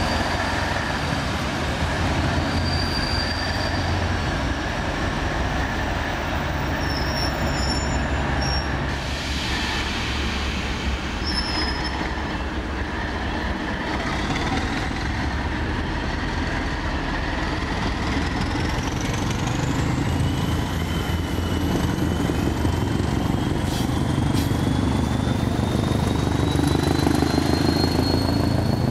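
Northern Ireland Railways diesel-electric multiple units: a diesel engine running steadily with a low drone, joined from about halfway through by high whines that rise slowly in pitch as a unit gets moving past the platform.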